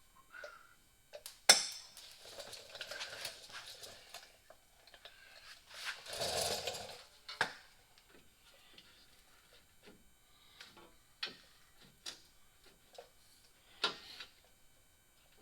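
Scattered sharp clicks and light knocks of parts and tools being handled, with a brief rustle about six seconds in; the loudest is a single sharp click about a second and a half in.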